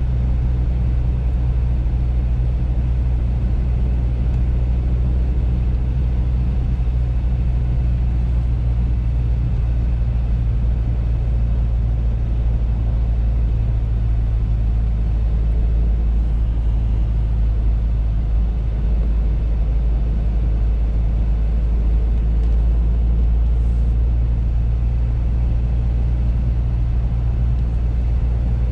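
Audi A3 driving along, a steady low rumble of engine and road noise that holds even throughout.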